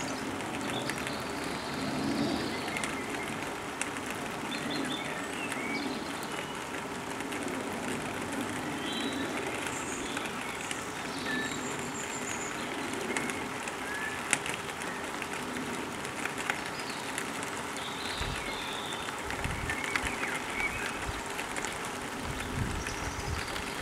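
Garden ambience: a steady background noise with scattered short bird chirps. Low bumps of wind or handling on the microphone come near the end.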